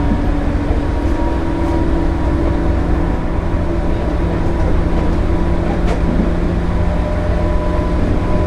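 Running sound inside a JR 205 series 0-bandai electric train, a field-added excitation control set, at steady speed: a constant rumble of wheels on rail under a steady, even-pitched hum from the traction motors and gears. A single sharp click comes about six seconds in.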